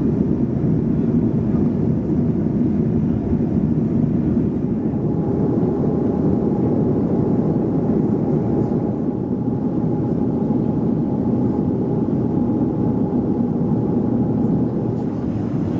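Steady cabin noise of a Boeing 737-400 airliner: an even, deep rumble of engines and airflow. A faint steady hum joins it about a third of the way through.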